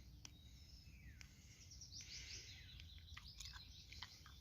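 Faint birdsong: small birds chirping and whistling, with quick falling notes and a denser run of song about halfway through, over a low steady background rumble.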